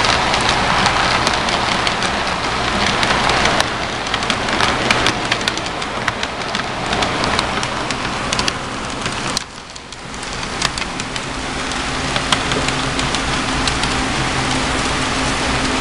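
Model train running on layout track: steady clattering, ticking wheel noise under a low motor hum. The clatter drops away briefly about nine seconds in, and after that the hum is more prominent.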